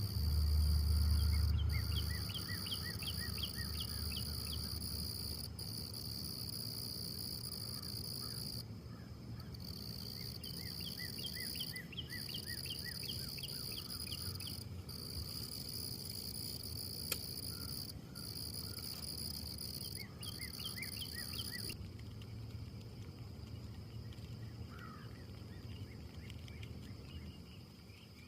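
An insect's high, steady trill that breaks off briefly every few seconds and stops about 22 seconds in, with a bird singing short runs of quick chirps alongside it. A low rumble fades away over the first couple of seconds.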